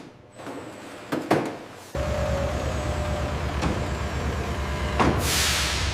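A couple of sharp knocks, then a heavy truck's diesel engine comes in abruptly about two seconds in and runs steadily with an even low throb. A sharp hiss of air near the end sounds like the air brake releasing.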